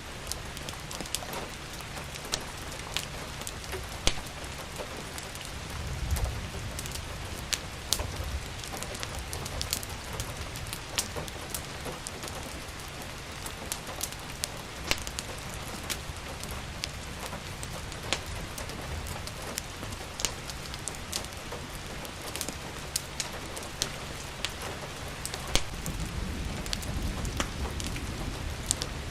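Steady rain falling, with the sharp, irregular pops and crackles of a wood fire burning in a fireplace. Low rumbles swell briefly about six seconds in and again near the end.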